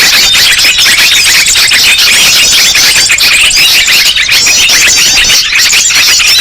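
A dense chorus of many small songbirds chattering and calling at once: rapid, overlapping high chirps and trills with no pause. This is the kind of noisy mixed-bird recording played to lure wild birds in.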